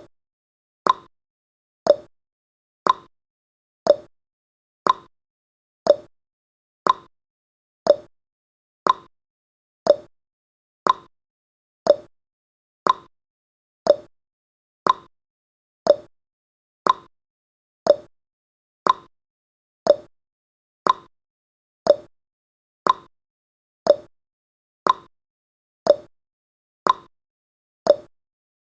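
Countdown timer's clock tick-tock sound effect: one short tick every second, alternating between a higher and a lower pitch.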